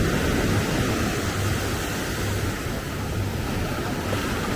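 Steady beachfront ambience: a continuous rushing noise of surf and road traffic blended, with some wind on the microphone.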